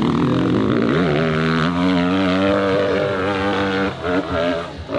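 Dirt bike engine running hard at high revs, holding a steady pitch for a few seconds, then dropping away about four seconds in.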